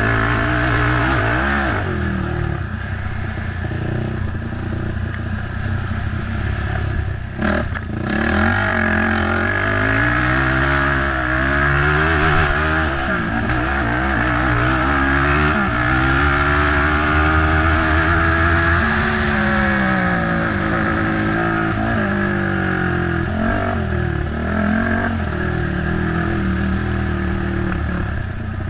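Race ATV engine running hard, its pitch rising and falling over and over as the throttle is opened and closed, with clatter from the machine over rough ground and a brief knock about seven and a half seconds in.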